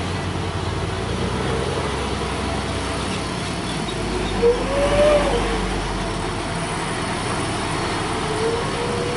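Heavy truck's diesel engine running in a steady low drone while it labours uphill under an overweight coal load. A short rising-and-falling tone sounds about halfway through, with a fainter one near the end.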